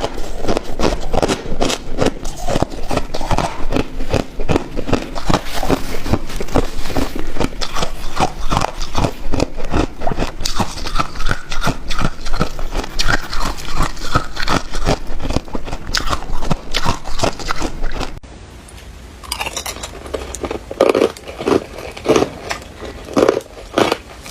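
A person biting and chewing hard ice close to the microphone: dense, irregular crunching and cracking, with a short lull about three-quarters of the way through, then heavier crunches.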